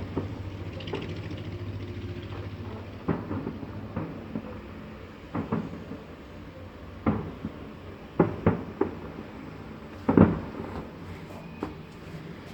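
Fireworks shells bursting with a series of irregularly spaced booms, about a dozen, the loudest about ten seconds in.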